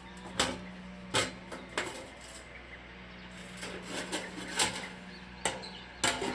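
Metal parts of a fire grill knocking and clicking together as they are handled and fitted, about seven sharp clanks spread unevenly over a steady low hum.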